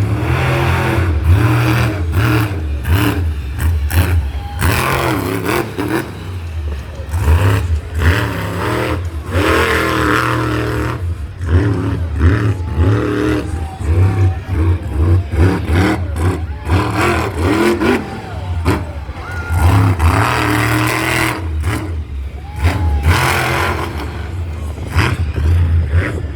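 Monster truck engines revving hard over and over, the pitch rising and falling in quick repeated surges over a heavy low rumble.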